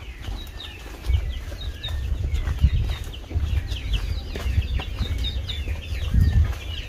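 Birds calling in quick, short chirps, over a low, uneven rumble.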